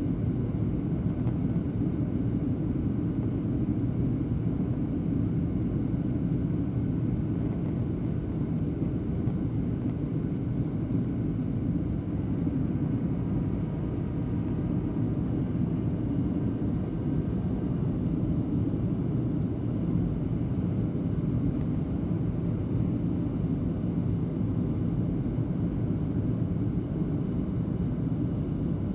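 Steady low rumble of engine and airflow noise inside an airliner's cabin in flight, with the flaps extending for the approach.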